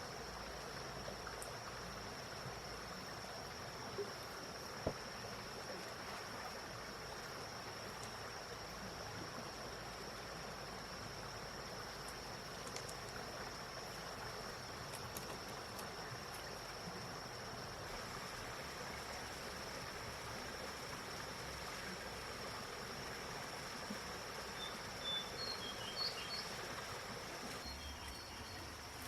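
Outdoor ambience: a steady high-pitched insect drone over an even hiss like flowing water, with a few short bird chirps near the end.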